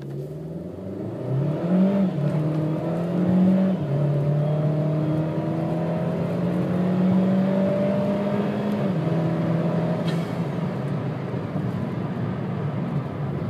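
2013 Chevy Sonic RS on its stock exhaust, accelerating hard from a start toward about 65 mph. The engine note climbs and then steps down in pitch about two, four and nine seconds in as the automatic transmission upshifts. The exhaust is rather quiet.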